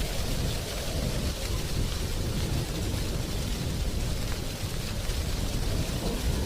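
Wind blowing through a tree's drying leaves: a steady rushing noise with a heavy low rumble underneath that flutters without a break.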